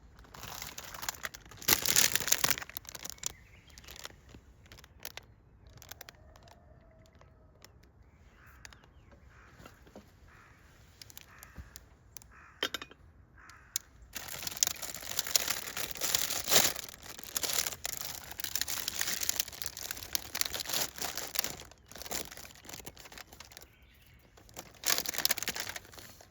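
Rustling and crinkling in bursts, like something being handled or torn open: a burst near the start, a longer stretch in the second half and a short one near the end.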